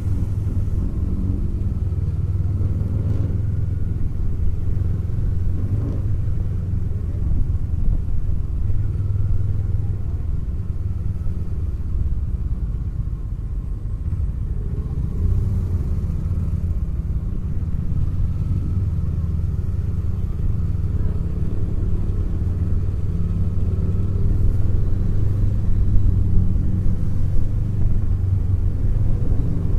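Kawasaki Eliminator's parallel-twin engine running steadily at low road speed, a continuous low rumble that grows a little louder near the end.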